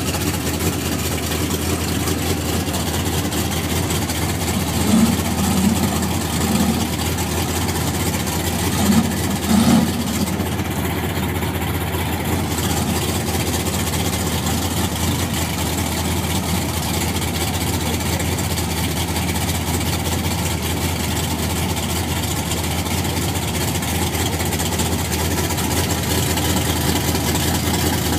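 Twin-turbo Chevrolet Monte Carlo drag car idling steadily near the starting line, briefly louder twice, about five and nine seconds in.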